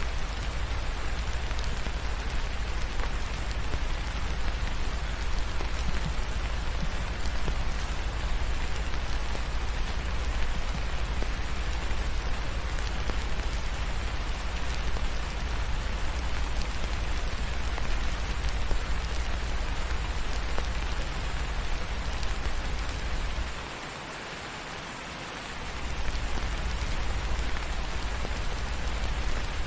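Steady rain falling and pattering on surfaces, an even hiss with a deep rumble underneath; the rumble drops away for about two seconds near the end.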